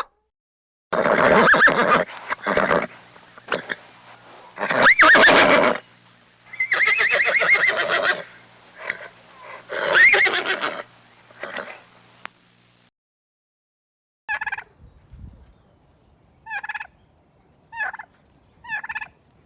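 Farm animal calls: a run of loud calls for about twelve seconds, then after a short pause four or five short, evenly spaced calls.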